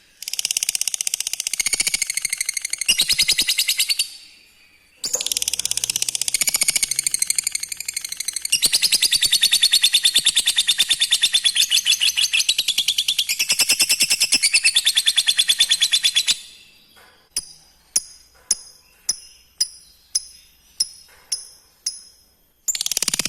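Lovebird ngekek: long runs of rapid, high-pitched chattering trill, one of about four seconds and one of about eleven seconds, followed by a string of single sharp chirps about two a second.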